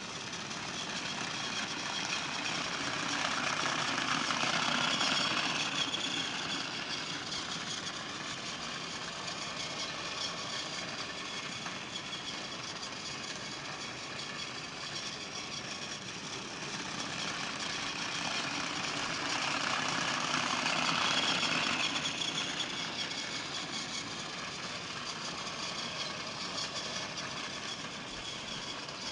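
Battery-powered Trackmaster Thomas toy engine running on plastic track: a steady motor whir and wheel rattle that gets louder twice as it passes close by.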